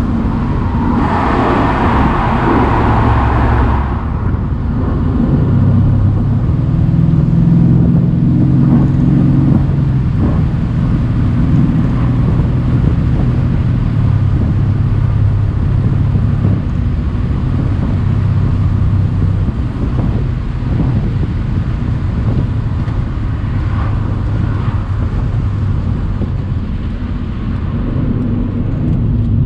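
Twin-turbo V8 of a Mercedes-AMG C63 (W205) cabriolet running on the move with the top down, heard with wind and tyre noise. A burst of rushing wind noise comes in the first few seconds, and the engine note rises in steps between about five and ten seconds in as the car pulls through the gears.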